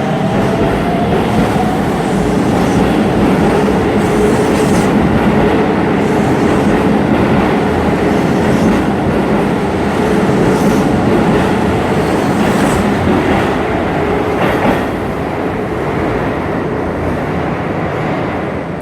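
Hokuso Railway 9100-series electric train running on rails, heard from inside the car: a steady rolling rumble with a rising motor whine at the start and a few sharp clicks from the wheels over rail joints.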